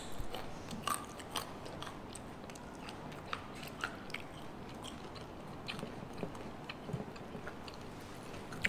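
Crunchy bites and chewing of crisp food close to the microphone, with sharp crackles that come thickest in the first second and a half and then turn sparser.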